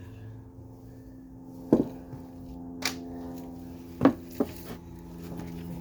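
Metal hand tools clinking and knocking as they are picked up and set down, four sharp clinks spread through a few seconds, over a steady low hum.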